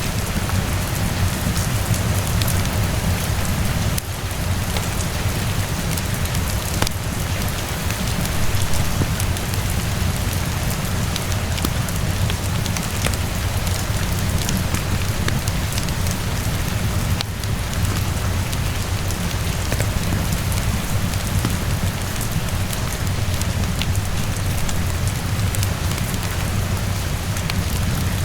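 Steady heavy rainfall with a constant low rumble underneath, mixed with scattered small crackles from a wood fire.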